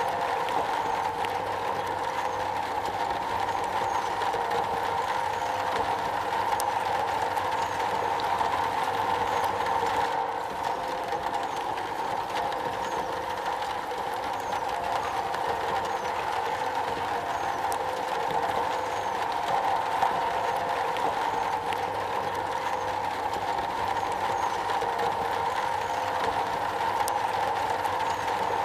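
Steady rain falling on a metal roof: an even, unbroken rush of noise with faint scattered ticks of single drops.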